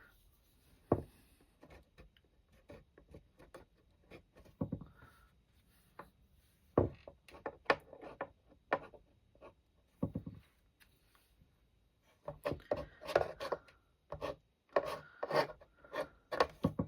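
A scraping tool, a palette knife or plastic card, dragged and tapped across wet paint on watercolour paper to press in rock texture. The strokes come irregularly, sparse at first and quicker and busier near the end.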